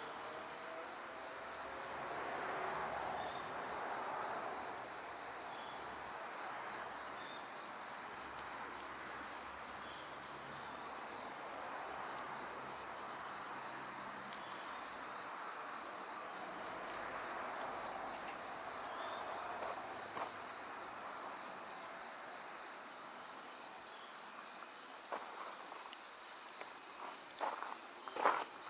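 Steady high trilling chorus of crickets and other night insects over the soft hiss of a wood campfire, with a few sharp clicks near the end.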